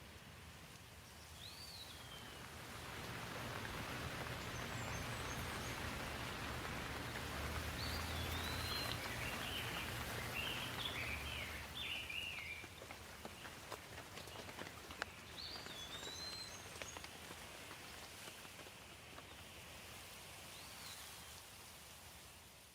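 Steady rain falling, swelling louder for several seconds in the middle, with a low hum under it then. A bird chirps briefly now and then.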